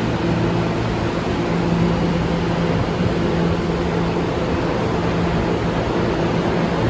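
New York City subway train running in the station: a steady rumble and rail noise with a low electrical hum that does not change.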